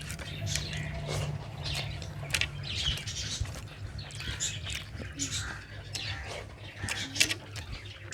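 Close-up eating sounds: wet chewing and mouth smacks in quick, irregular clicks as rice and fish curry are eaten, over a steady low hum.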